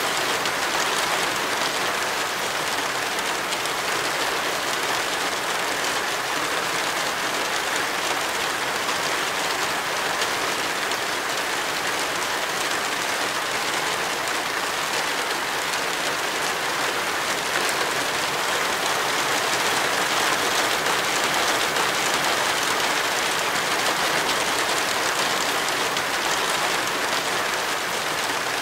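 Rain falling steadily, an even, unbroken hiss with no separate drops or knocks standing out.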